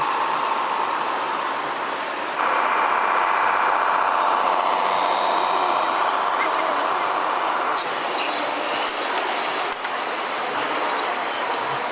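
Radio-controlled model truck running. A steady high whine starts about two seconds in and stops near eight seconds, followed by hissing and a few sharp clicks.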